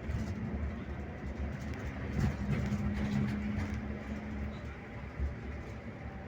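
Scania K360IB bus's diesel engine running with a steady low rumble, and a held low hum for a couple of seconds midway.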